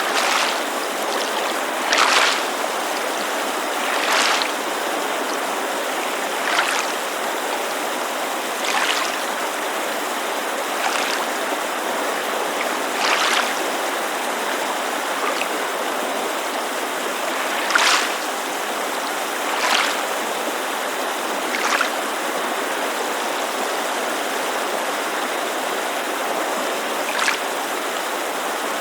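Lake water lapping at the shore in small splashes, one every two seconds or so at irregular intervals, over the steady rush of a creek.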